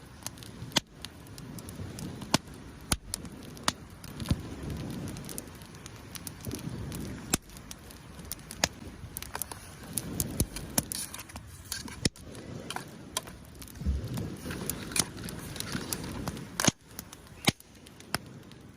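Wood fire crackling, with irregular sharp pops over a low steady rumble of flame.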